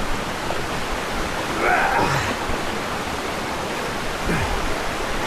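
Waterfall water rushing into rock pools: a steady, even rush.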